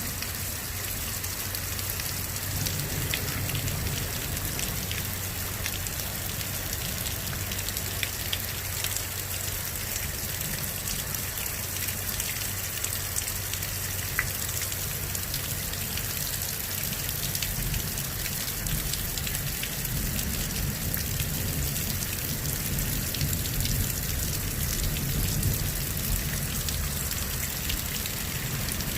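Heavy rain pouring down steadily during a severe thunderstorm, with the patter of many drops striking surfaces.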